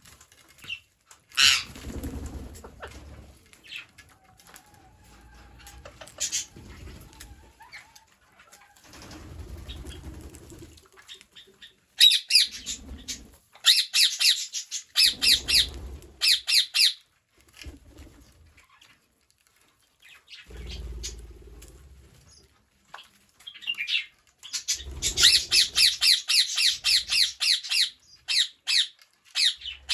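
Green parrots squawking: two long runs of rapid, repeated shrill calls, one starting about twelve seconds in and another about twenty-five seconds in, with single calls scattered between. Bouts of low rustling come and go under the calls.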